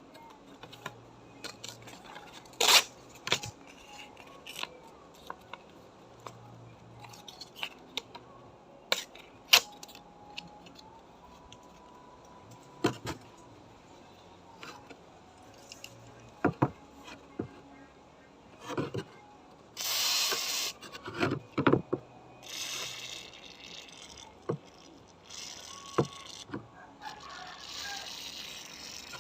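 Scabbard and tools handled on a workbench: scattered sharp clicks and knocks, then several short bursts of scraping from about two-thirds of the way in.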